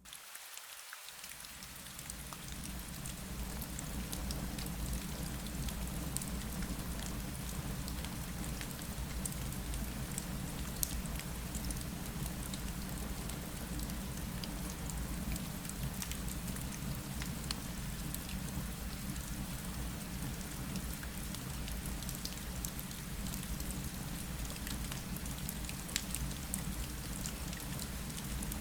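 Rain falling against a window: a steady hiss with scattered sharp drop ticks and a low rumble underneath, swelling up over the first couple of seconds.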